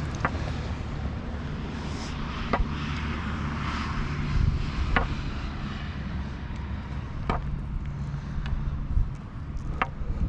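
Steady low engine drone from distant motor traffic, with short sharp ticks about every two and a half seconds.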